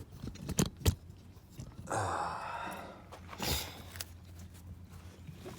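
Spark plug wires being handled: a few light clicks and knocks, then a breathy rustle about two seconds in and a shorter one a second or so later.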